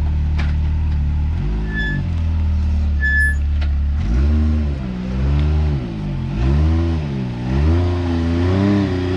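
Side-by-side UTV engine idling, then revved in a series of throttle blips, its pitch rising and falling again and again as it works up a rock ledge.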